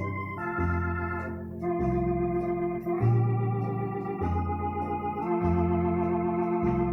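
1978 Yamaha Electone BK-5C electronic organ played: held chords over a bass line, changing about once a second.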